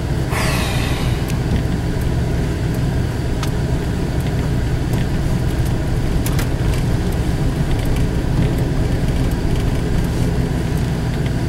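Steady low rumble of a vehicle's engine and tyres, heard from inside the cab while driving slowly on a snow-covered road. There is a short hiss about half a second in.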